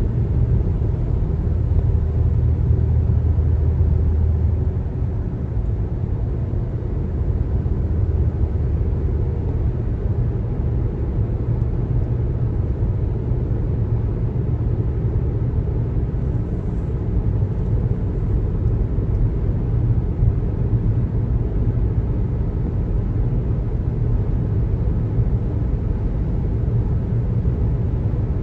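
Car road noise while driving on a highway: a steady low rumble of tyres and engine, with a low hum that is strongest in the first few seconds.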